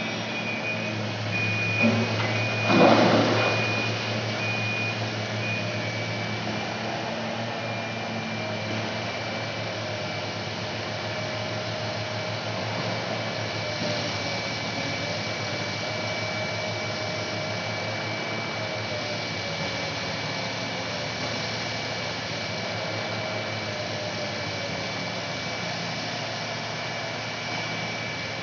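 Backhoe excavator's engine running steadily under hydraulic load, with a low drone and a whine that wavers slightly in pitch. A loud clatter stands out about three seconds in.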